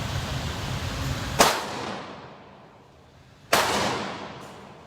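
Two handgun shots about two seconds apart, each sharp report dying away in a short echo.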